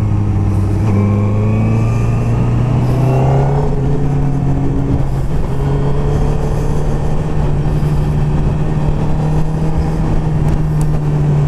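Vehicle engine running steadily on the road, its note slowly climbing in pitch. A second engine rises in pitch over the first few seconds.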